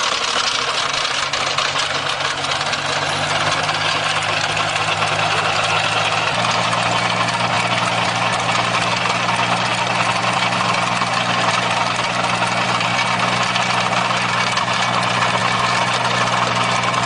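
A machine's engine running steadily, with a dense mechanical noise over it; the low engine note shifts slightly about six seconds in.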